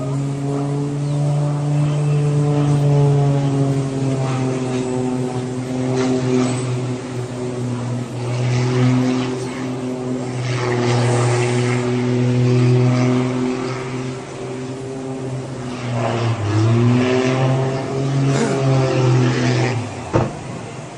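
Propeller airplane engine droning steadily with a clear pitch. The pitch dips and comes back up briefly about three-quarters of the way through, and the sound cuts off suddenly with a click near the end.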